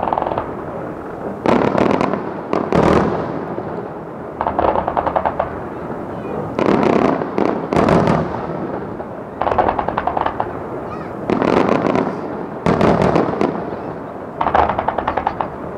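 Fireworks display: fan-shaped salvos of shells fired in quick rapid-fire volleys, about nine clusters of sharp reports, one every second or two, with a rumble echoing between them.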